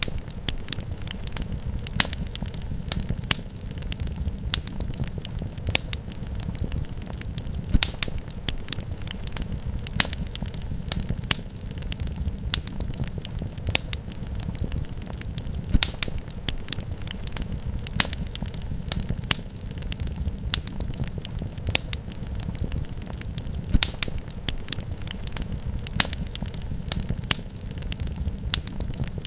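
Wood fire crackling in a fireplace: a steady low rumble of burning with frequent sharp pops and snaps, the loudest pops recurring about every eight seconds.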